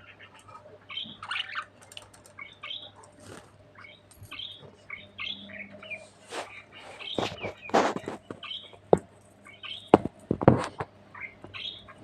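Budgerigar chirping and chattering in short, quick notes, with several sharp knocks in the second half, the loudest around eight and ten seconds in.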